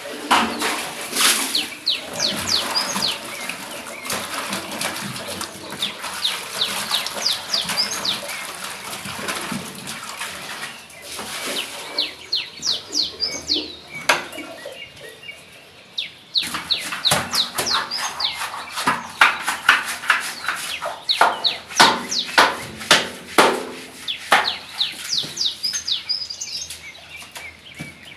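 Birds chirping over and over in quick short calls, with a run of knocks and clatter in the second half.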